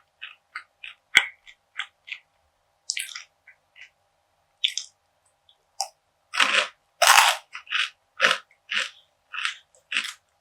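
Close-miked chewing of crunchy perilla seed brittle: a string of short, crisp crunches, with a louder burst of crunching from a fresh bite about six seconds in.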